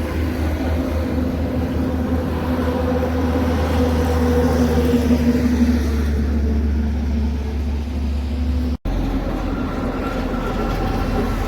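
Heavy truck's diesel engine running with a steady low drone. The sound drops out for an instant about nine seconds in, then a similar engine drone carries on.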